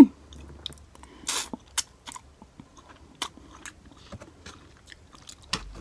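Close-up mouth sounds of a person chewing instant ramen noodles, with scattered small clicks and a short louder burst of noise about a second and a half in.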